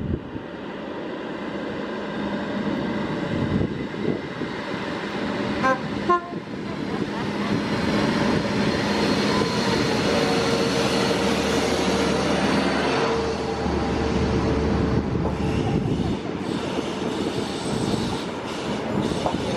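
High Speed Train (InterCity 125) pulling out of a station, its Class 43 power cars' diesel engines and the train's running noise building steadily over several seconds, holding loud with a steady drone, then easing off towards the end.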